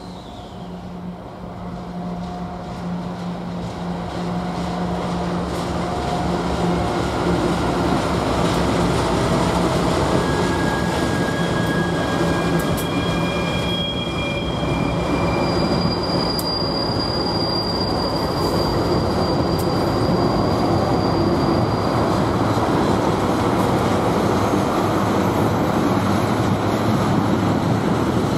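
Norfolk Southern diesel freight train passing through a tight curve: a steady locomotive engine tone at first, then the rumble of the train grows louder over the first several seconds and holds steady. High wheel squeals from the flanges grinding on the curve come and go in the middle.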